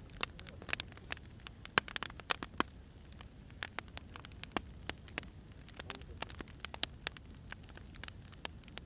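Firewood burning: irregular sharp crackles and pops over a low steady rumble of the flames.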